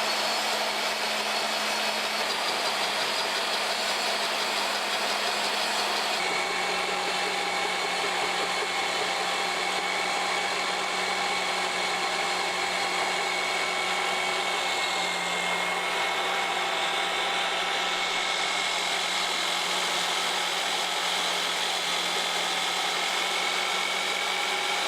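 Homemade line boring machine running, its motor turning a long boring bar that cuts out a stretched excavator pin bore: a steady mechanical hum and whine, the pitch shifting slightly about six seconds in.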